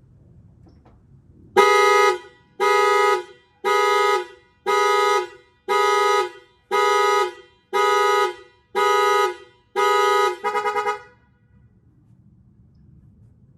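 Car horn honking in an even alarm pattern, nine honks about one a second, ending in a quick stuttering burst. It is a car alarm set off while the car is being jump-started.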